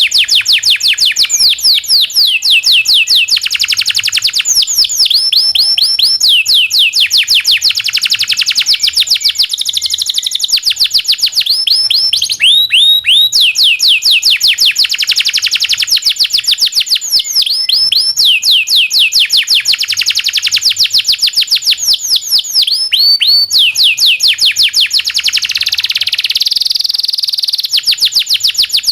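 Domestic canary singing without pause: long runs of quick, repeated chirps that each sweep down in pitch, changing from one note type to the next every few seconds, with long rolling trills between them.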